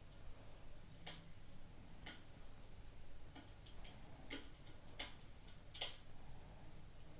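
Wood fire crackling: sharp, irregularly spaced pops over a low steady rumble.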